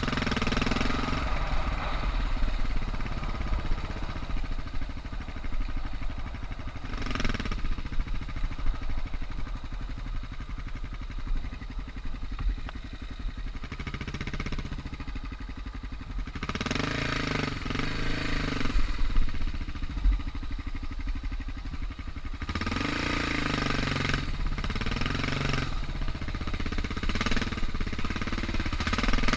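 Suzuki DR650's single-cylinder four-stroke engine running at low revs, opened up in short bursts of throttle about half a dozen times between quieter stretches.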